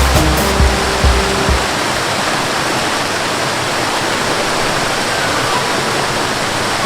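Flowing river water rushing steadily. For the first second and a half a deep rumble with low steady tones runs underneath, then cuts off suddenly, leaving only the even rush of water.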